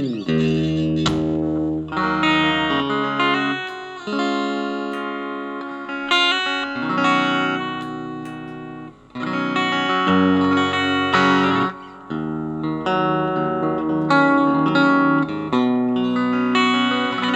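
Bacchus Universe guitar being played: ringing chords and single notes, each let sustain for a second or two, with a note sliding down in pitch at the start.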